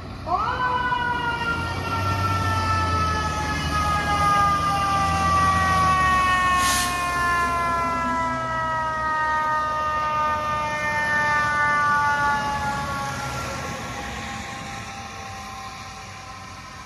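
Fire truck siren winding up sharply at the start, then falling slowly and steadily in pitch as it winds down and fades, with a truck engine rumbling underneath in the first seconds. A brief hiss comes about seven seconds in.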